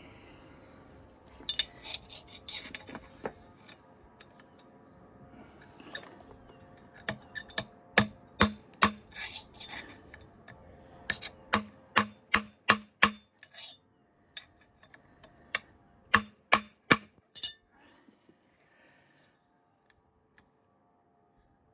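Hammer tapping a small punch to bend over a metal locking tab washer on the engine: sharp ringing metallic taps in three runs, about three, then five, then four strikes. Before them, tools clatter and rub as they are handled.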